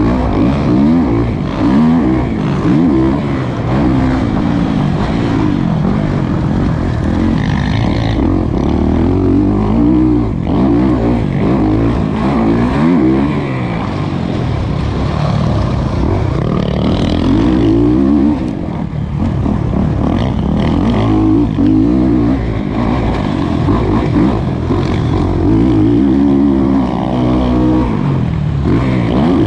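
Kawasaki KX450 dirt bike's single-cylinder four-stroke engine revving up and down over and over as it is ridden hard on a motocross track, recorded close to the rider.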